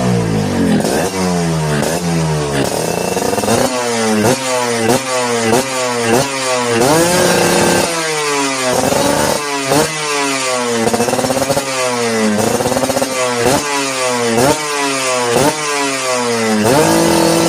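Tuned two-stroke motorcycle engine with a 58 mm piston, revved through an aftermarket racing exhaust in quick throttle blips, about one a second, each rising and then falling. It is held at a steady high rev briefly about seven seconds in and again near the end.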